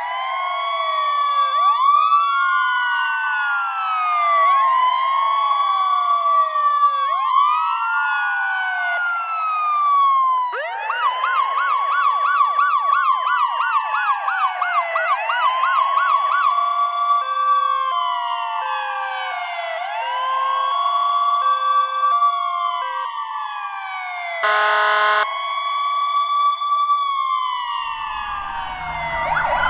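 Electronic emergency-vehicle sirens in a rising-and-falling wail, more than one sounding at once. About ten seconds in they switch to a fast yelp for several seconds, then go back to the wail. A short horn blast comes near the end, and a low engine rumble starts just after it.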